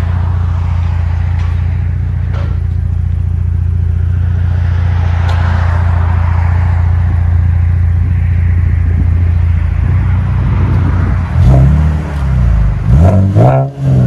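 Chevy Camaro 3.6L V6 exhaust through Flowmaster Super 10 race mufflers, idling steadily, then revved in a few short throttle blips near the end.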